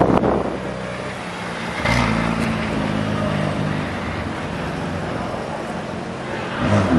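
McLaren Artura's twin-turbo V6 running as the car pulls away at low speed. The engine note swells about two seconds in, then settles.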